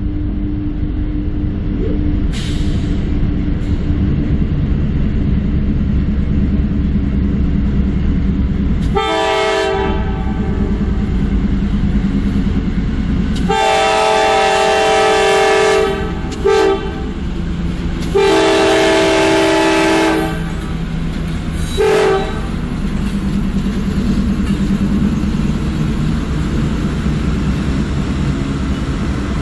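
CSX freight train's diesel locomotives rumbling steadily as they pass close by, with the locomotive air horn sounding a chord five times: a brief blast about nine seconds in, then long, short, long and short blasts, the loudest sound, between about 13 and 22 seconds.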